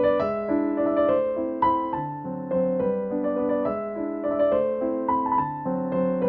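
Background piano music: a slow melody over sustained chords, with notes changing about every half second.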